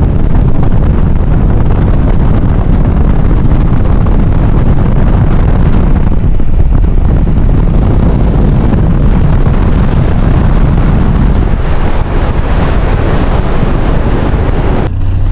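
Loud, steady rumble of a Ram 1500 pickup being driven hard in the snow, engine and tyre noise mixed with wind buffeting the microphone. The sound changes abruptly near the end.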